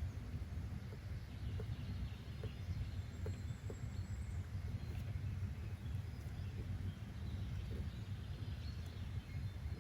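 Outdoor nature ambience: a steady low rumble with faint, scattered bird chirps.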